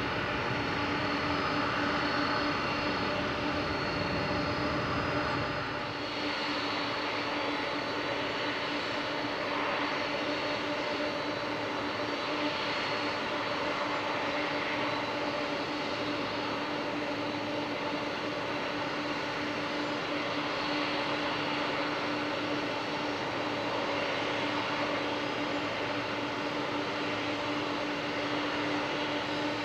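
Boeing 747-400 jet engines running with a steady, even drone and a constant hum. A low rumble underneath fades away about six seconds in.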